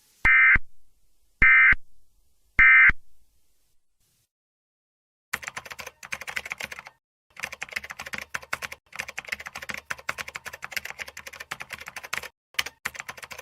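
Emergency Alert System end-of-message data burst: three short, loud, buzzy digital chirps about a second apart, marking the close of the alert. After a few seconds' pause comes a long, quieter stretch of dense, irregular crackling clicks.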